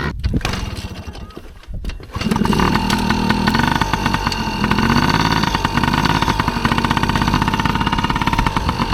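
Dirt bike engine running close by, loud and steady, with rapid firing pulses. It comes in about two seconds in, after a quieter, uneven stretch.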